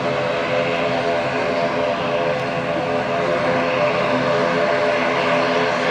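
ATR 72-500 turboprop's Pratt & Whitney PW127 engines and propellers running, a loud steady drone with several held tones.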